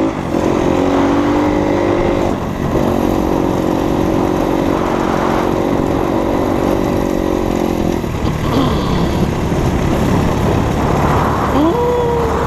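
Enduro dirt bike engine running at a steady speed, with a short letup about two seconds in. After about eight seconds it runs rougher, with short rising revs near the end.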